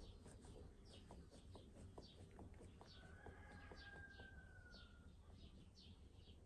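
Faint, high-pitched chirping from small birds: many short falling chirps at about two a second, with one longer held note in the middle.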